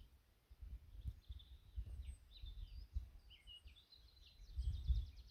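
Small birds chirping and trilling in short, varied phrases. Gusts of wind rumble on the microphone, loudest about three-quarters of the way through.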